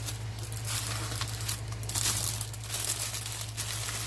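Plastic packaging crinkling as it is handled, in uneven scrunches, over a steady low hum.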